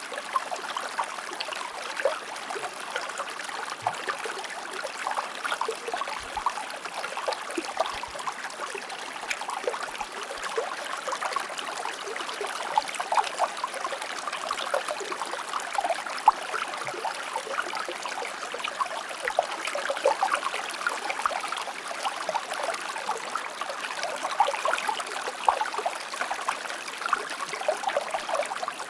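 Shallow river or stream flowing steadily, its water trickling and splashing with many small, quick splashes over a continuous rush.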